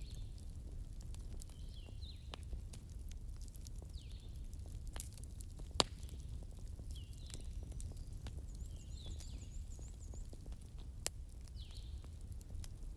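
Wood campfire crackling: a steady low rumble of the burning fire with scattered sharp pops, two louder ones about six and eleven seconds in. A bird calls over it with short chirps repeated every second or two.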